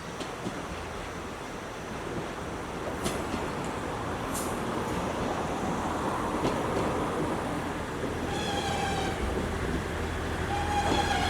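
A diesel train on a non-electrified line drawing closer, its rumble growing louder, with a high steady squeal twice near the end.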